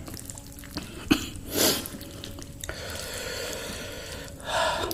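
Mouth sounds of eating fried chicken: wet chewing and smacking clicks, with a short louder burst about one and a half seconds in and another near the end.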